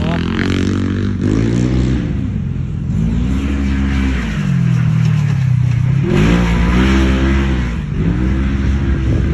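Motor vehicle engine revving, its pitch rising and falling several times. It starts abruptly and stops abruptly.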